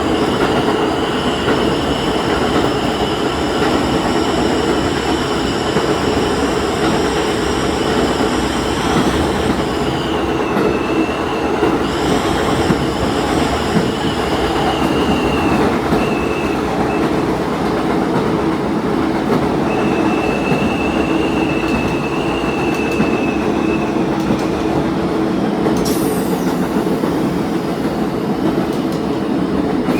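Diesel train running along the line: a steady rumble of engine and wheels on the track, with a high, steady squeal over it that stops about halfway through and comes back for a few seconds about two-thirds of the way in.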